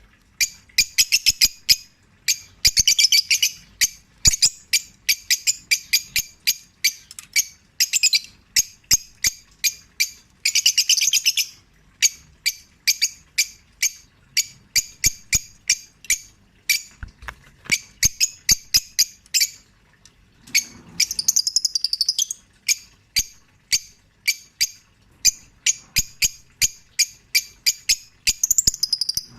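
Pet rosy-faced lovebirds chirping, a rapid run of sharp, high chirps several a second, broken by a few short pauses, with a longer warbling call a little past the middle.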